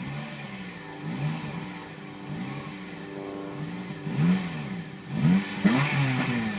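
Honda Civic Type R FN2's 2.0-litre four-cylinder i-VTEC engine, on its standard exhaust with a K&N panel air filter, revved in repeated throttle blips. The revs rise and fall about once a second, then come quicker and louder near the end.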